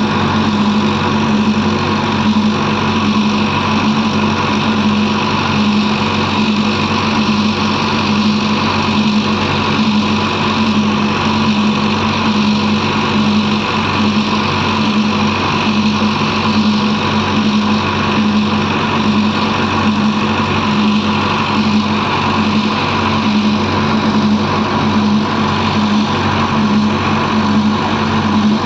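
Diesel engine running steadily at a constant speed, a loud, unchanging drone.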